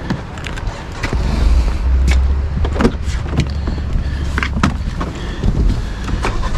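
Low, steady rumble of a car being backed up slowly on a flat tire with a blown-out sidewall. It swells about a second in, with scattered clicks and knocks over it.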